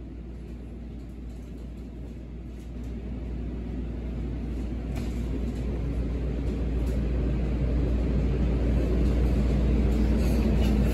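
Light-rail train running, heard from inside the passenger car as a steady low rumble that grows louder from about three seconds in.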